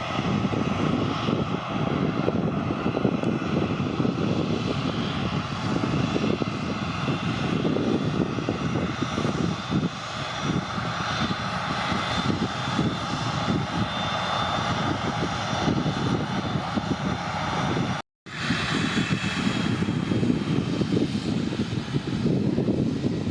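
AirAsia jet airliner's engines running at take-off power, a loud steady rumble. The sound drops out completely for a moment about eighteen seconds in, then the rumble resumes.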